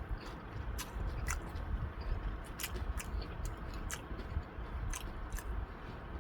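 Close-miked chewing of fried chicken drumettes with a low steady rumble and irregular sharp wet clicks and smacks from the mouth.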